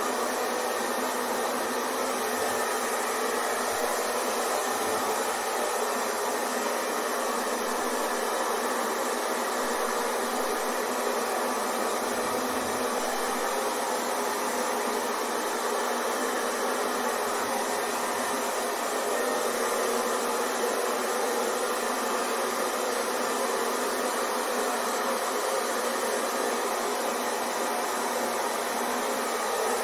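Hair dryer running steadily, an even whirring rush of blown air and motor hum.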